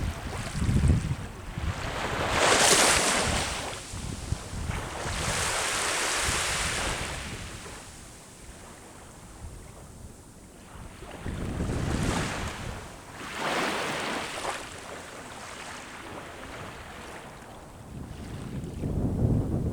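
Sea waves breaking and washing up the shore, several surges of hiss a few seconds apart, with low wind rumble on the microphone.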